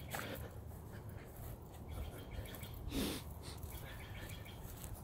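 Faint bird calls over quiet outdoor background, with one short, louder animal call about three seconds in.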